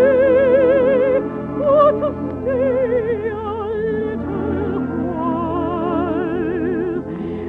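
Music: singing in an operatic style, long held notes with a wide vibrato, over instrumental accompaniment.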